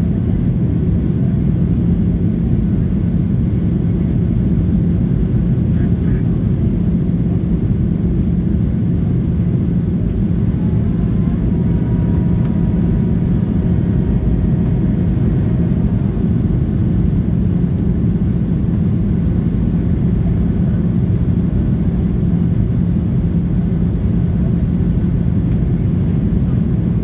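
Steady cabin noise inside a Boeing 737-800 in flight: a loud, even rumble of engines and airflow with a constant low hum running through it.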